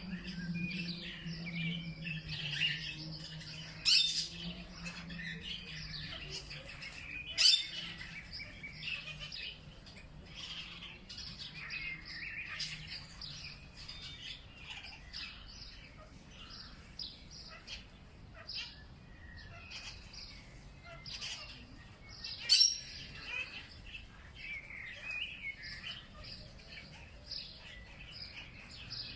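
Many songbirds chirping and calling together, short high notes overlapping throughout, with three sharp clicks standing out loudest. A low steady hum underneath fades out about seven seconds in.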